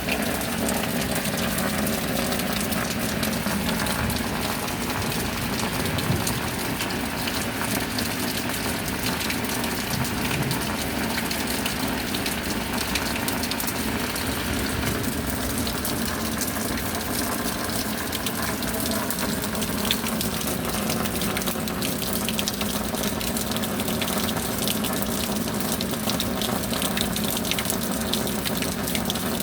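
Steady rain falling: a dense, even hiss of water with many small drop ticks and a faint steady hum underneath.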